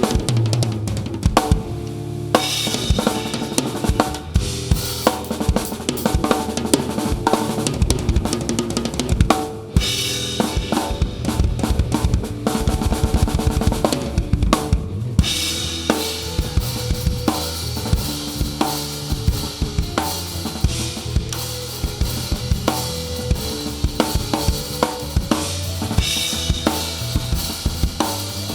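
Live rock band playing an instrumental passage, heard from right at the drum kit: bass drum, snare and cymbals loud and close, with bass and guitar under them. The cymbals thin out briefly about ten seconds in, then come back stronger about five seconds later.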